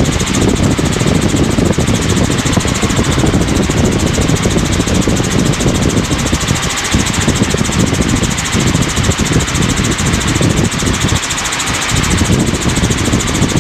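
Helicopter in cruise flight, its engine and rotor running with a steady, loud drone.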